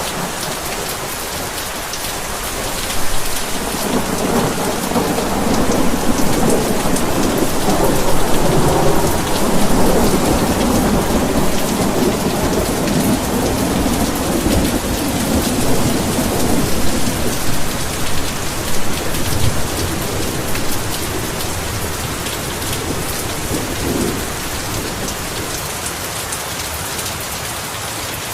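Heavy rain falling steadily, with a long roll of thunder that rises about three seconds in, swells for around twenty seconds and dies away near the end.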